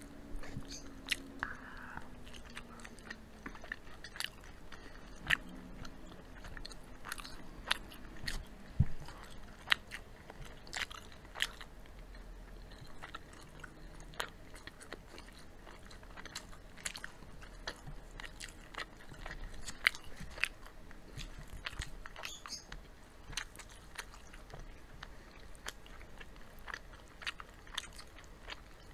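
Two people chewing and biting into crispy fried chicken, with irregular sharp crunches between quieter chewing.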